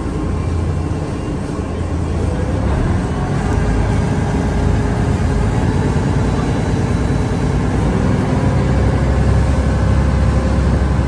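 Cross-river ferry boat's engine running steadily, a low rumble with a faint steady hum on top, a little louder in the last few seconds.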